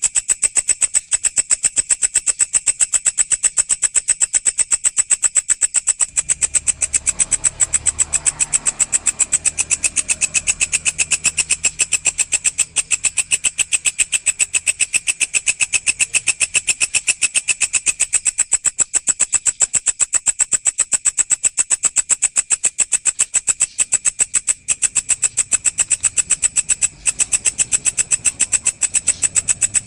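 Walang (singing grasshopper) stridulating: a rapid, steady train of high, buzzy pulses, several per second, with no pauses.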